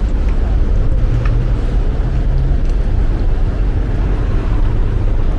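Street traffic noise: a steady low rumble of vehicles passing and running nearby.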